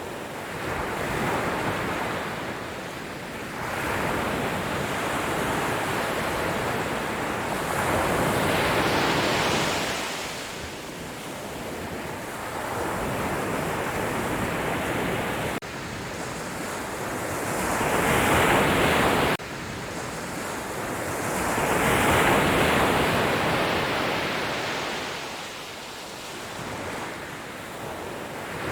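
Sea waves washing onto the shore, the noise swelling and fading in long surges every few seconds. The sound drops off abruptly twice, about halfway and about two-thirds of the way through.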